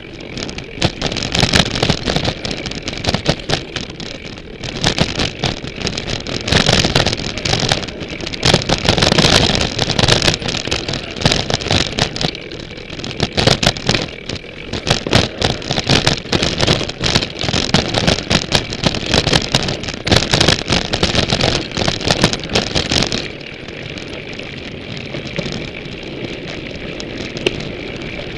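Ibis Mojo HD 140 mountain bike rattling and clattering over rough ground, dense irregular knocks carried through the frame to a frame-mounted camera. Near the end the clatter eases to a steadier rolling noise.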